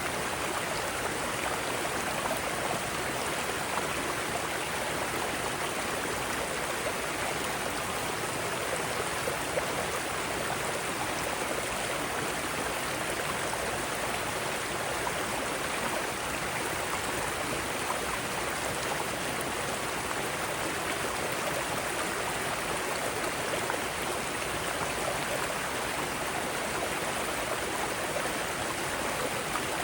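Mountain stream rushing over rocks in small cascades, a steady even splashing flow.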